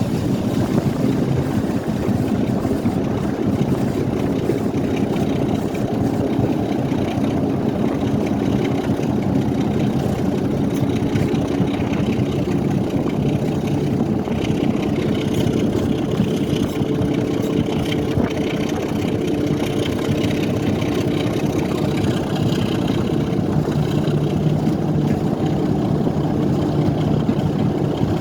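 A train's engine running with a steady drone over a continuous rumble.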